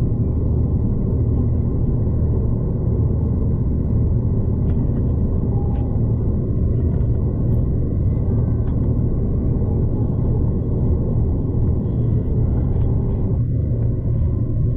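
Steady low rumble of a V/Line passenger train running along the line, heard from inside the carriage, with a few faint clicks.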